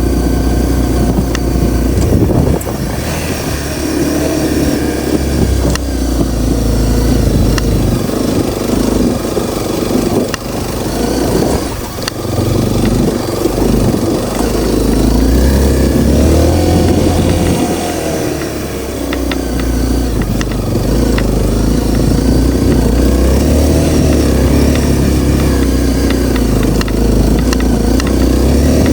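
Honda CRF250L's single-cylinder four-stroke engine running while riding, its pitch rising and falling as the throttle opens and closes, over a heavy low rumble.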